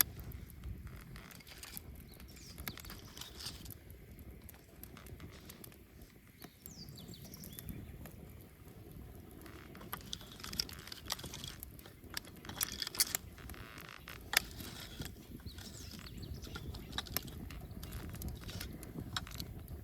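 Wood bonfire crackling, with scattered sharp pops that come thickest and loudest about twelve to fourteen seconds in, over a steady low rumble.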